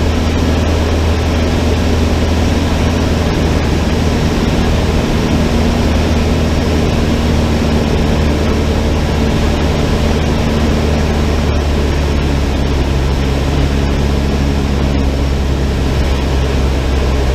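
Cessna 152's four-cylinder Lycoming engine and propeller running at a steady, unchanging drone, with strong low steady tones.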